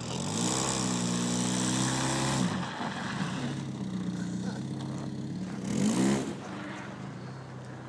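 1993 Nissan Altima's four-cylinder engine revved: the pitch rises about half a second in and is held for about two seconds before dropping back to a steady low run, then one short blip of revs near six seconds.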